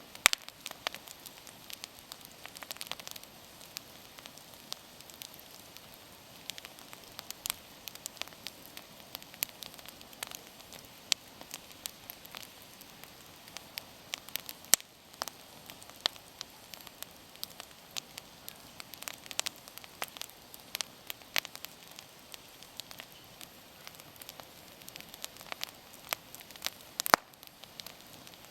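Wood bonfire burning, with irregular sharp crackles and pops over a soft hiss.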